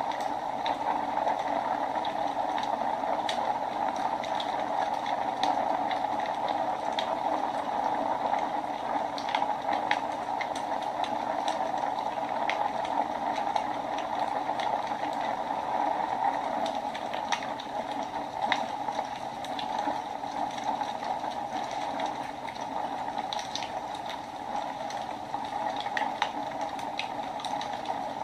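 Wood fire burning in a fireplace: a steady rushing hiss with scattered small crackles and pops.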